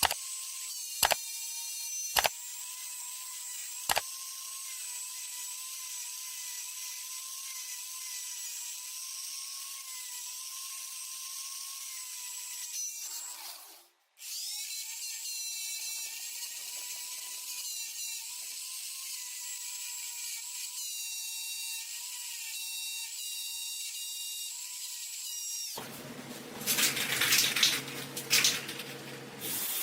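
A small high-speed power tool running with a steady high whine, with a few sharp clicks in the first seconds and a brief stop about halfway through. Near the end a louder, rougher noise sets in.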